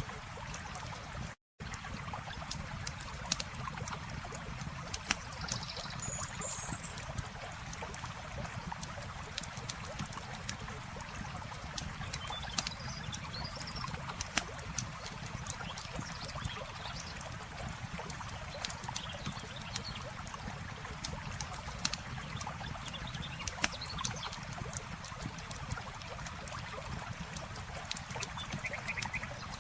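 Campfire crackling with frequent sharp pops over a steady rush of flowing water. The sound cuts out for a moment about a second and a half in.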